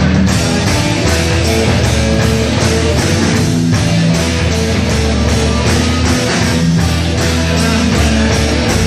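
Loud rock music, an instrumental passage with electric guitar, bass and a steady drum beat.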